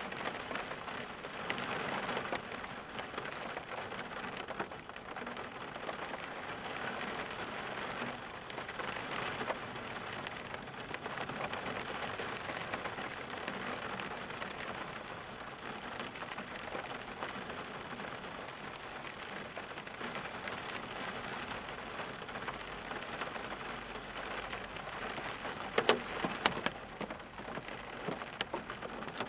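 Steady rain falling, a continuous hiss with many small drop impacts heard as fine ticks. Near the end a few louder, sharper drop hits stand out.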